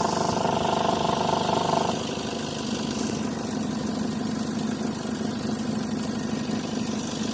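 Chevrolet Colorado's engine idling with the A/C compressor running noisily, a noise the mechanic thinks may come from excessive high-side pressure from too much refrigerant. A higher steady tone drops out about two seconds in, leaving a lower steady hum.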